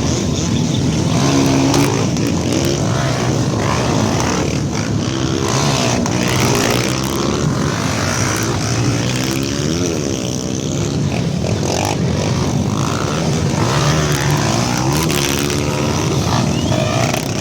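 Many off-road trail motorcycles running and revving together at a mass start, their overlapping engine notes rising and falling continuously.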